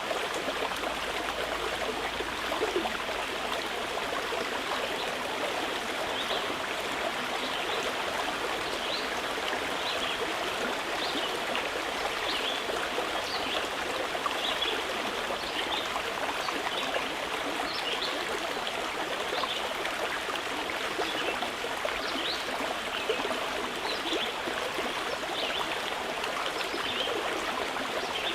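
A mountain river flowing steadily, with small birds chirping in short, repeated calls over it from about six seconds in.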